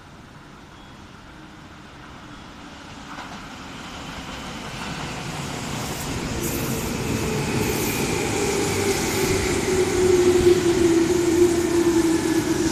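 Tobu 20000 series electric commuter train pulling into the station, its rumble growing louder as it enters the platform. A whine falls slowly in pitch as the train brakes to a stop.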